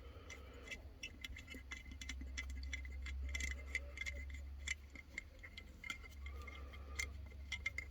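Faint, irregular light metallic clicks and ticks of hand tools turning a screw on a lawn mower's engine parts, over a steady low hum.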